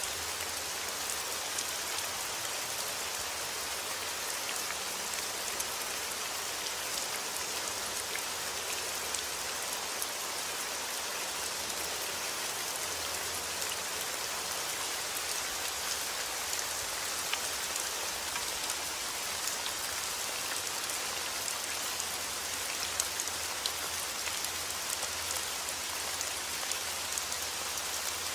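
Steady heavy rain falling outdoors, a continuous hiss with many individual drops ticking on surfaces.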